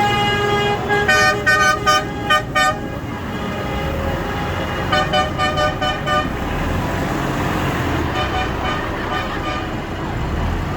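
Tractor horns tooting in two runs of short blasts, the first about a second in and the second about five seconds in, over the steady rumble of tractor engines going by.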